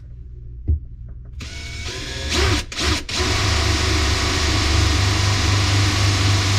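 Power drill starting in a couple of short pulses, then running steadily at speed.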